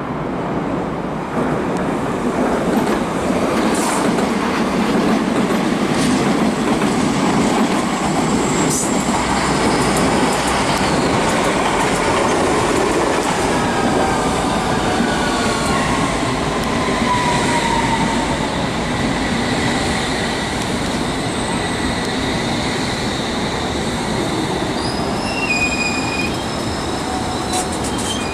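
A train running past at close range: a steady rumble of wheels on rail, with thin high wheel squeal that comes in partway through. A tone slowly falls in pitch through the middle.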